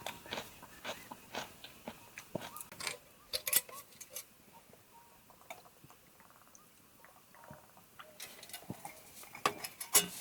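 Irregular light clicks and taps, the loudest about three and a half seconds in and near the end, with a few short chirps in the first second and a quieter stretch in the middle.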